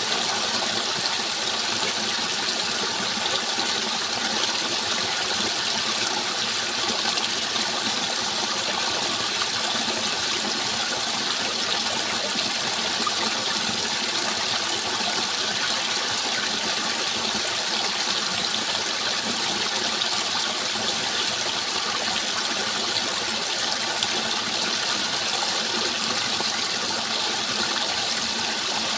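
Running water rushing steadily and evenly, with no breaks or separate splashes.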